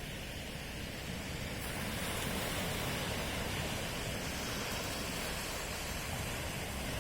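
Ocean waves washing onto the shore at night, a steady rushing wash that swells slightly after about two seconds.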